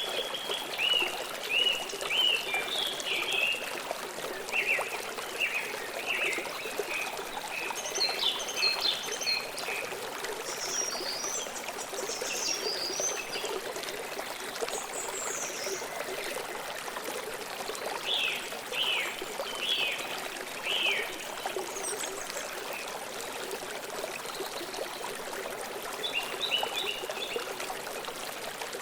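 Flowing stream water running steadily, with birds chirping in short bursts of high notes that come and go every few seconds.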